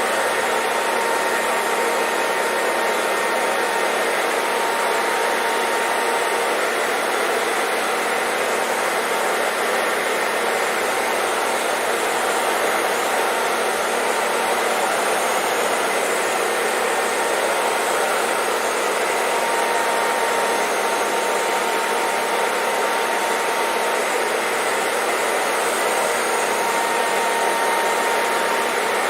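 Hair dryer blowing steadily, an even rushing noise with a faint motor whine, played as continuous white noise.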